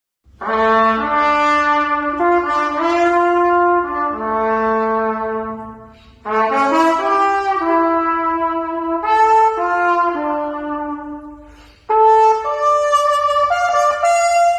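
A brass instrument plays a slow melody of long held notes in three phrases, with short breaks about six and twelve seconds in.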